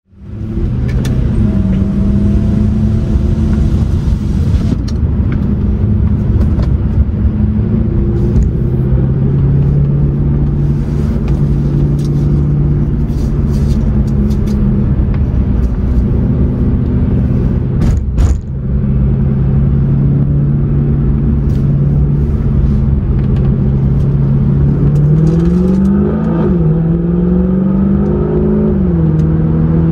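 Mercedes C63 AMG's 6.2-litre V8 heard from inside the cabin, running at a steady cruise under road and wind noise, with one brief click midway. Near the end the revs climb and fall twice as the car accelerates and upshifts.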